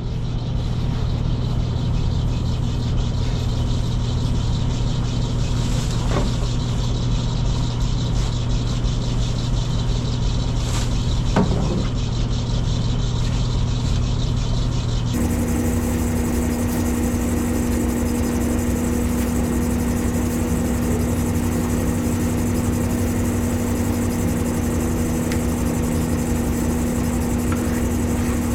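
Engine of a farm machine running steadily at a constant speed; about halfway through its hum abruptly steps up to a higher pitch.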